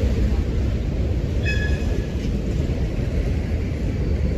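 Norfolk Southern train 110 rumbling steadily past on the rails, with one brief high-pitched squeal about a second and a half in.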